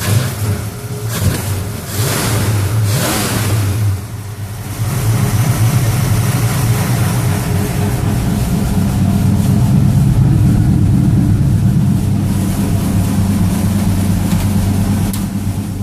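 Ford 302 V8 in a 1966 Mustang, breathing through a two-barrel carburettor, running cold shortly after a cold start. It surges unevenly several times in the first four seconds, then settles into a steady idle.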